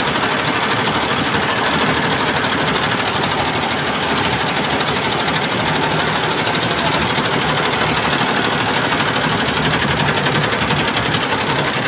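Computerized embroidery machine running steadily, its needle stitching in a rapid, even chatter.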